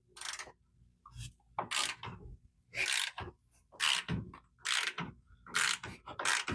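Hand ratchet wrench backing out a bolt, a series of clicking ratchet strokes about one a second.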